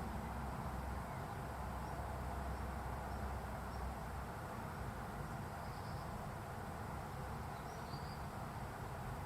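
Steady outdoor background hiss and low rumble, with a few faint, short high chirps scattered through it.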